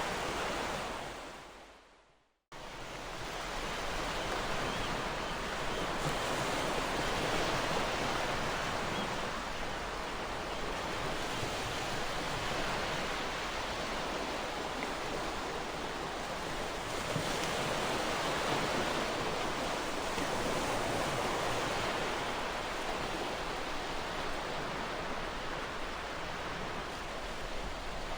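Ocean surf washing steadily, rising and falling slowly as the waves roll in. Early on the sound fades out to silence about two seconds in and then cuts back in abruptly.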